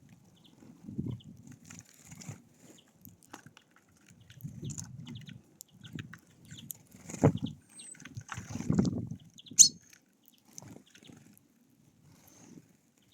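Birds moving about on a feeder: irregular scuffling and wing flutters, sharp pecking taps, and faint high chirps, with the loudest flurries about seven and nine seconds in.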